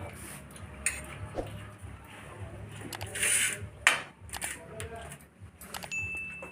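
Scattered clinks and scrapes of serving utensils against plates and pots as food is dished out, with faint voices in the background. A short high steady tone sounds near the end.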